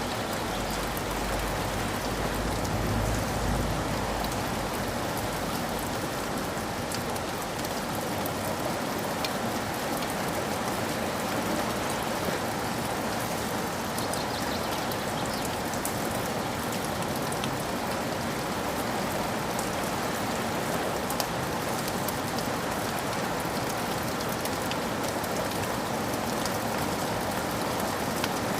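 Steady rain falling, with a low rumble in the first few seconds that fades away.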